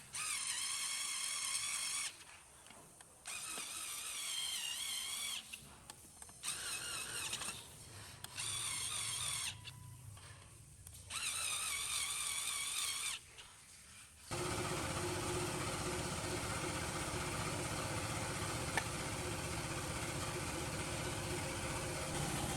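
Small electric power tool whining in five short bursts of about one to two seconds each, then running steadily for the last eight seconds.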